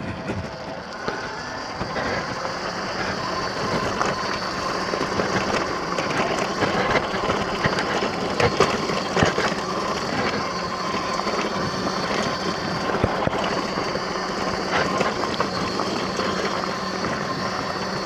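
X Pro dirt bike engine running steadily while riding a trail, with scattered knocks and rattles as the bike goes over bumps.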